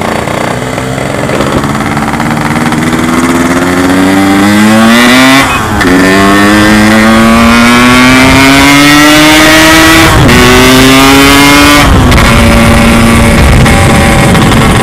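Yamaha RX-King two-stroke single-cylinder motorcycle engine accelerating under way: the pitch climbs steadily, drops sharply at two upshifts about five and ten seconds in, climbs again, then falls back to a lower steady pitch as the throttle eases near the end.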